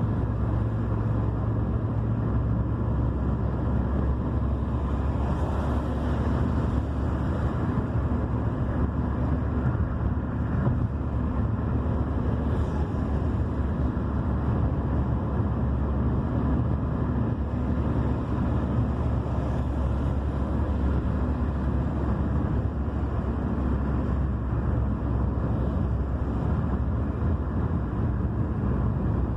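Steady low rumble of a car driving along a road, engine and tyre noise with some wind on the microphone, unbroken throughout.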